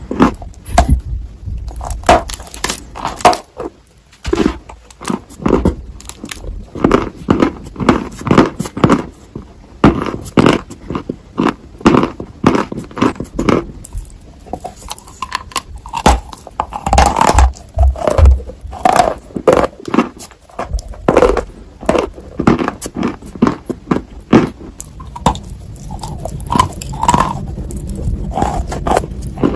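Dry Ural clay being bitten and chewed close to the microphone: a long run of sharp crunches and crumbling cracks, several a second at times.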